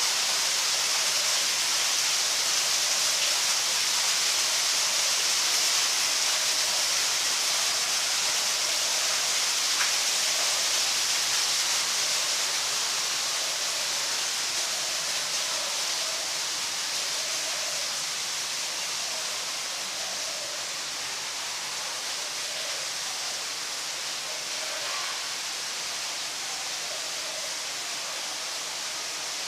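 Steady rushing of running water, a hiss that grows a little quieter in the second half.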